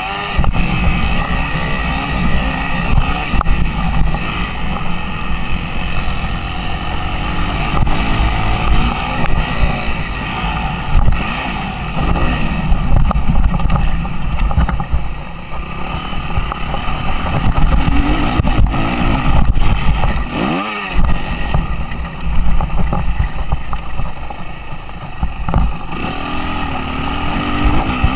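Suzuki RM-Z 250 four-stroke single-cylinder motocross engine revving hard and constantly changing pitch as the bike is ridden. About twenty seconds in, the engine note briefly drops away, then climbs again.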